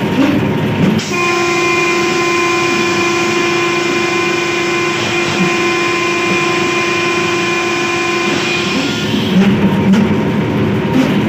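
Locomotive horn sounding one long blast of about eight seconds, starting about a second in: a chord of several steady tones over the running noise of an HBU 20 diesel locomotive at speed.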